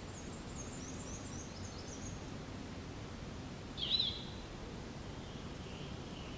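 Forest birds calling over a steady background hiss: a quick run of thin, very high chirps in the first two seconds, then one loud wavering whistled call about four seconds in, with fainter calls near the end.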